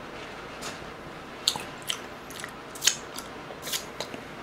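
Close-miked chewing with the mouth closed: a handful of short, wet mouth clicks and smacks, roughly one a second, over a low steady hiss.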